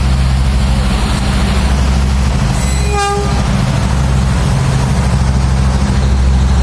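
Train running with a steady low rumble, and one short horn toot about three seconds in.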